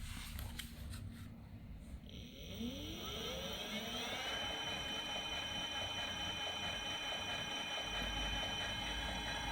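A 24 V 250 W direct-drive brushless rear hub motor whining as it spins up, its pitch rising for about two seconds, then running at a steady speed with a steady whine.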